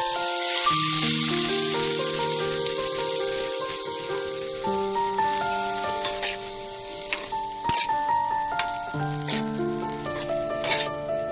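Vegetables sizzling as they stir-fry in hot oil in a pan, with sharp clicks of a utensil against the pan from about halfway through. Soft background music with a melody runs underneath.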